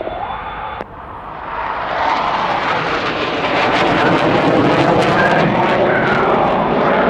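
Jet noise from the Blue Angels' F/A-18 Super Hornets in diamond formation as they pass and climb. After a sudden dip about a second in, it swells quickly and holds as a loud, steady jet roar.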